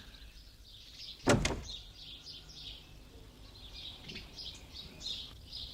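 Small birds chirping repeatedly, with a sharp double knock about a second in and a fainter knock later.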